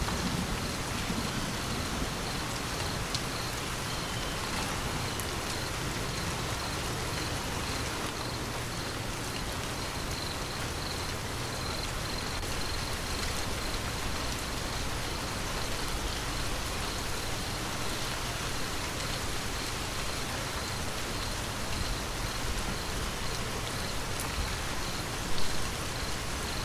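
Steady rain falling, an even hiss of drops with a low rumble underneath, as a roll of thunder fades out in the first second. A brief louder patch comes about 25 seconds in.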